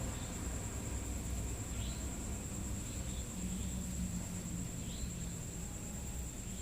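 Night insects such as crickets: a steady high-pitched drone with short chirps every second or two, over a low steady rumble.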